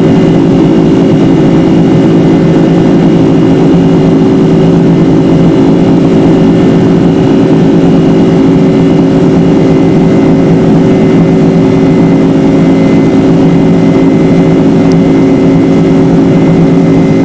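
Boeing 747 jet engines running during the takeoff climb, heard from inside the cabin: a loud, steady rushing noise with a hum of several steady low tones.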